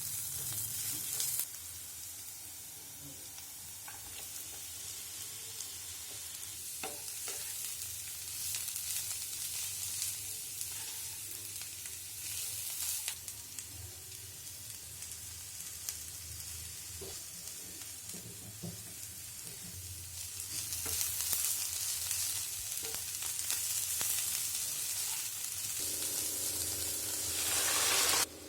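Cabbage sizzling as it fries in a pan, with scattered clicks of a utensil stirring it. The sizzle grows louder about two-thirds of the way through, then cuts off suddenly near the end.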